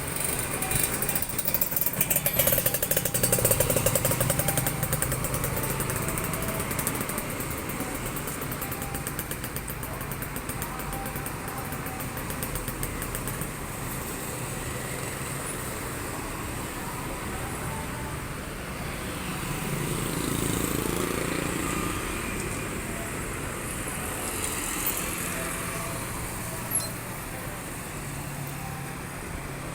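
Motorcycle engine running while riding on a city road, with steady road and wind noise; the sound swells louder twice, about three seconds in and again about twenty seconds in.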